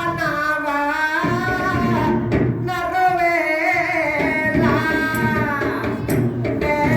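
Song for a Sinhala Vadiga dance: a singer holding long, wavering notes over a steady drum and percussion accompaniment, with short breaks between sung phrases.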